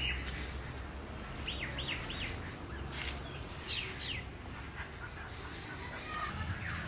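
Birds chirping outdoors: a quick run of three short sweeping calls about a second and a half in, and two more just before four seconds, over a steady low background rumble.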